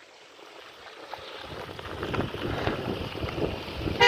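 Wind buffeting the microphone in gusts, starting about a second and a half in and growing louder. A short, loud pitched sound comes right at the end.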